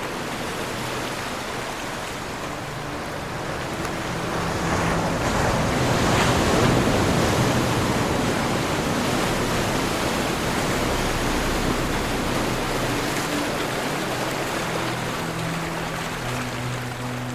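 Ocean surf: a wave builds to its loudest about six seconds in, then washes out slowly.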